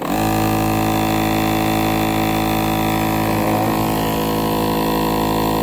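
ReliaMed compressor nebulizer switched on, its electric compressor pump starting abruptly and running with a steady, loud hum. It is working again after its blown fuse was replaced.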